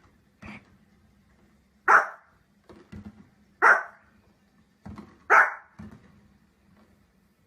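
A dog barking: three loud single barks spaced evenly, under two seconds apart, each preceded by a fainter short sound.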